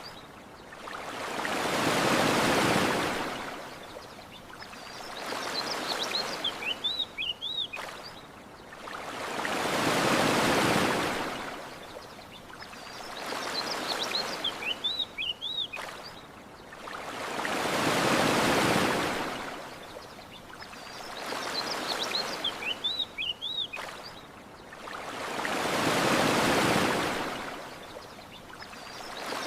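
Ocean waves washing onto a shore, rising and falling in slow swells: a big one about every eight seconds, with a smaller one between. A short run of high bird chirps comes back about every eight seconds as well.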